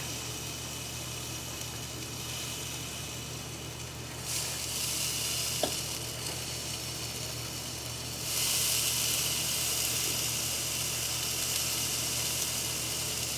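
Pork loin sizzling on the hot grill plate of a Ninja Foodi Grill, a steady hiss that grows louder about four seconds in and again about eight seconds in, with a steady low hum underneath and one light click a little after five seconds.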